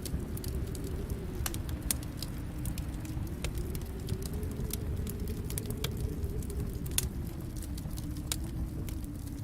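Wood fire crackling in a fireplace: a steady low rumble of the flames with irregular sharp pops and snaps, the loudest about seven seconds in.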